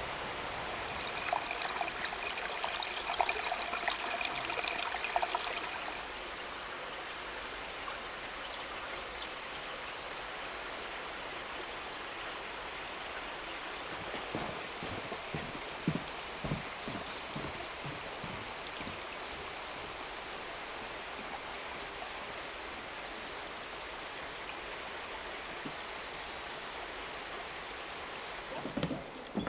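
Mountain stream rushing steadily over rocks. For the first six seconds a louder crackling layer with a steady high tone sits on top of it, and a few soft low knocks come through about halfway in.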